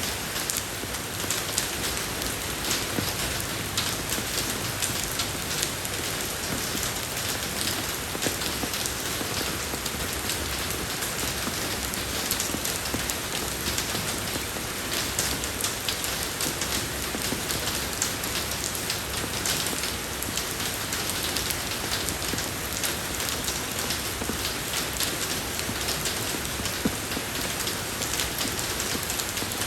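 Steady rain falling on a road surface, a dense even hiss with many small drop ticks throughout.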